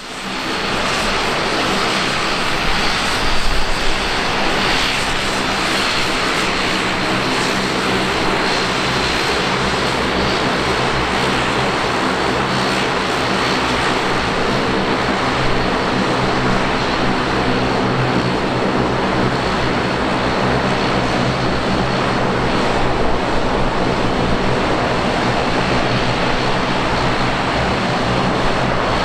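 Dash 8-402 (Q400) turboprop airliner's two Pratt & Whitney PW150A engines and propellers running steadily at takeoff power: a dense propeller drone with a thin steady whine above it.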